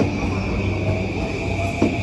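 Electric train running through the station: a steady rumble and motor hum, with a wheel knock over a rail joint on the steel bridge near the end.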